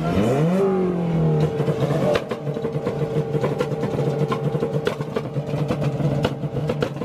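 Car engine revved up sharply and then held at a fixed speed against a two-step launch-control rev limiter. From about two seconds in, a rapid irregular crackle of exhaust pops and bangs rides on the steady engine note.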